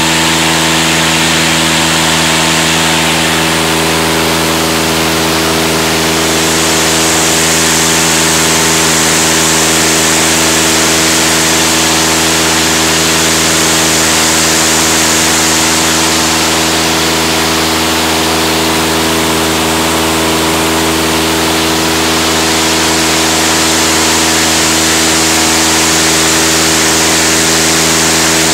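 Aeronca aircraft engine running steadily at a constant speed on a test run, with a loud, even drone that swells slightly in loudness now and then.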